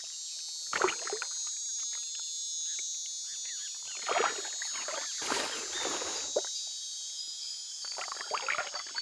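Water splashing and sloshing in several irregular bursts, the longest lasting about a second past the middle, over a steady high-pitched rainforest insect chorus.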